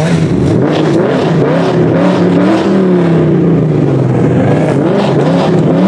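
Loud car engine running and revving, its pitch swelling up and dropping back several times.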